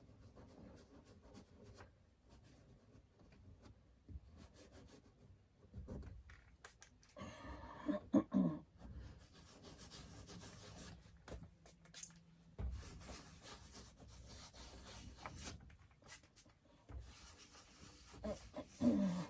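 Painting tool scraping and rubbing paint across a stretched canvas in quiet, uneven strokes.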